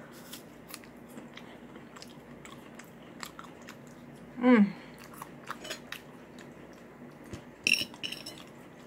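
Close mouth sounds of a person biting and chewing food, with many small wet clicks. About halfway through there is one short appreciative hum, and near the end a metal fork clinks against a ceramic plate a few times.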